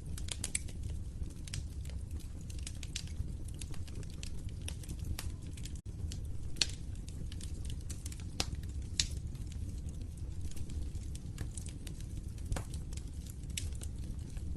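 Wood fire crackling in a fireplace: irregular sharp snaps and pops, a few louder than the rest, over a steady low rumble of the burning fire.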